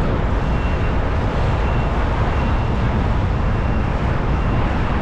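Wind buffeting the microphone of a camera carried on a moving bicycle: a steady, loud rumble.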